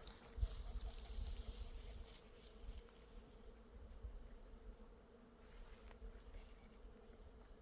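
Bees buzzing in a steady, faint hum, with a low rumble during the first few seconds.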